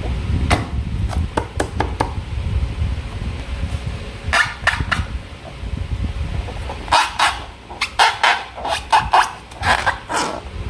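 Close-miked hand-handling sounds from making slime with balloons: scattered sharp clicks over a low rumble, then runs of short sticky rubbing and crackling about four seconds in and again from about seven seconds on.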